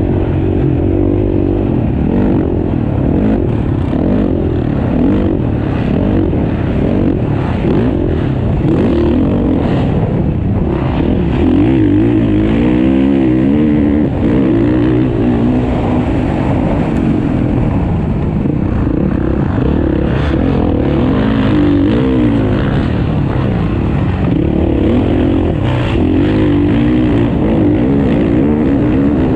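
Several motocross bikes racing, their engines revving up and falling away over one another.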